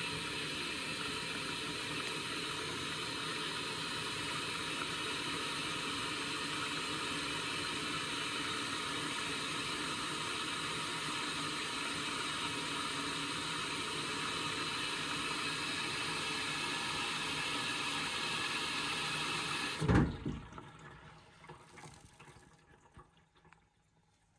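Indesit washing machine topping up with water during a rinse: a steady hiss of water rushing into the machine. It cuts off with a thump about twenty seconds in.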